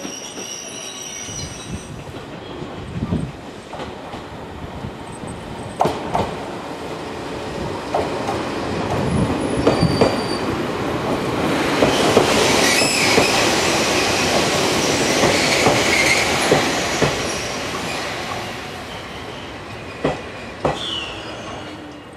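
Electric commuter trains running into a station. The wheels click over the rail joints and the brakes squeal, loudest in the middle as the cars pass close, then easing as the train slows to a stop.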